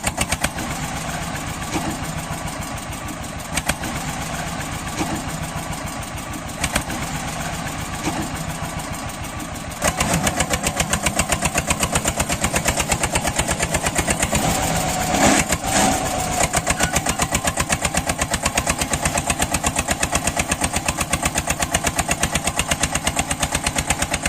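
Tractor engine running with a steady, regular thudding beat. It gets abruptly louder about ten seconds in.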